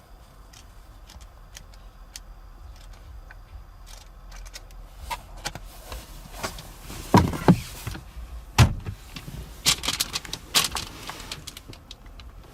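Clicks and knocks of car fittings being handled, with three heavier thumps a little past the middle and short rustling bursts near the end.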